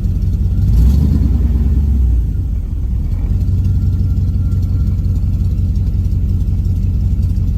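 Swapped 5.3 L LS V8 in a 1983 Pontiac Firebird idling, heard from inside the car, with a short swell in engine sound about a second in before it settles back to a steady idle.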